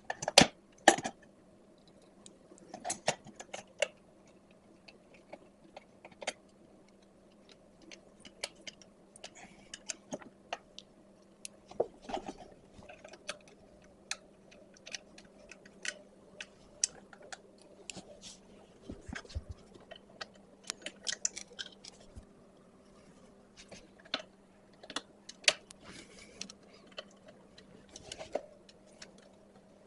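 Scattered light clicks and taps of a small ATV's recoil starter housing and hand tools being handled as the starter is fitted back on, over a faint steady hum.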